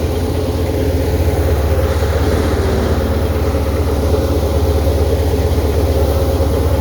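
Tractor diesel engine running steadily, with a fast even chug.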